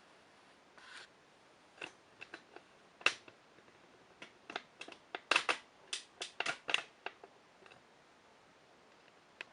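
A quick, irregular series of sharp clicks from the control panel of a Candy Bianca washing machine: buttons being pressed and the programme knob turned to set a delicates cycle with the ZoOM and Steam options.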